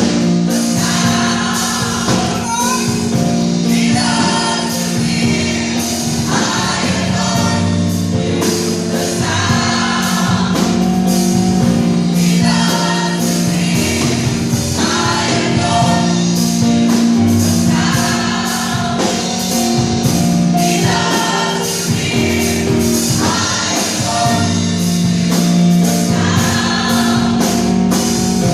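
Gospel choir singing with band accompaniment, in sung phrases of about two seconds each over held bass notes and a steady beat.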